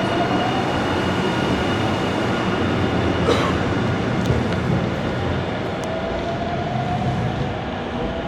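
Electric commuter train running past the platform. Its traction motors give a whine that rises in pitch as it gathers speed, over steady rolling noise, with one sharp clack a little over three seconds in.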